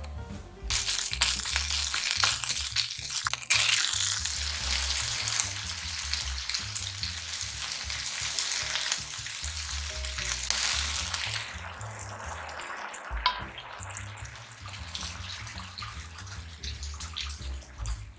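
Chicken pieces and grated ginger frying in sesame oil in a frying pan. A loud sizzle starts suddenly about a second in, then eases into a softer sizzle and bubbling as the sweet-and-sour sauce cooks down.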